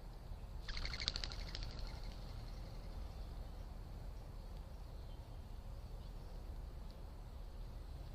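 A bird's short, rapid chattering call lasting about a second, starting just under a second in, over a faint steady high hiss.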